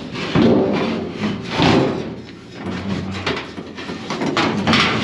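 Hard items being handled and shifted about, with several loud scraping rubs and knocks.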